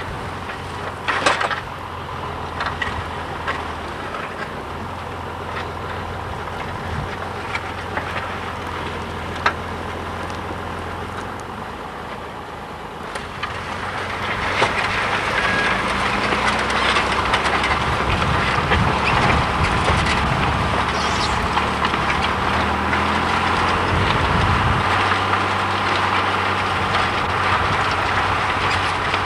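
John Deere 3350 tractor's six-cylinder diesel engine running steadily under load while pulling a plough, growing louder about halfway through.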